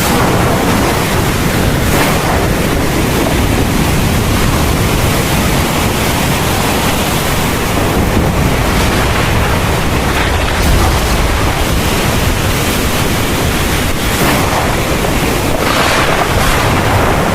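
Heavy thunderstorm rain pouring steadily, a dense hiss with a deep low rumble underneath that swells a little about ten seconds in.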